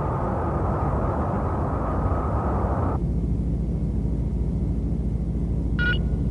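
Cartoon spaceship sound effects: a steady rushing engine noise that switches abruptly about halfway through to a lower, steady mechanical hum, followed near the end by a short electronic beep like a bridge alert.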